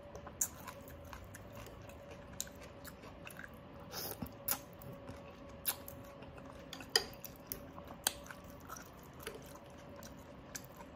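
Close-up chewing and mouth sounds of a person eating, with sharp smacks or clicks every second or so. A faint steady hum runs underneath.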